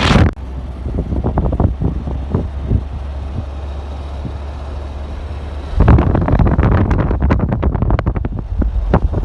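Wind buffeting the microphone: a steady low rumble with irregular gusts, growing louder and rougher about six seconds in.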